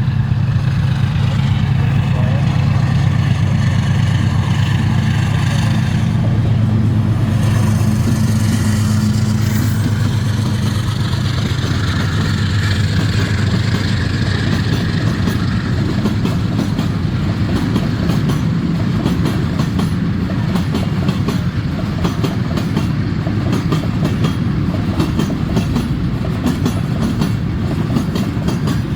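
A freight train of tank cars rolling past. A steady low hum carries through the first ten seconds or so, then gives way to the continuous rattle and click of the cars' wheels on the rails.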